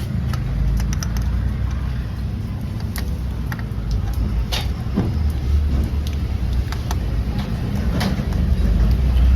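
Low, steady motor-vehicle engine rumble with scattered light clicks and taps. The rumble swells louder about five seconds in and again near the end.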